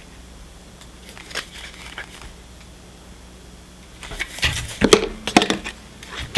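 Handling a Funko Soda collectible's packaging: short crinkling, crackling noises, a couple of isolated clicks a second or two in, then a busier cluster of handling noises about four to five and a half seconds in.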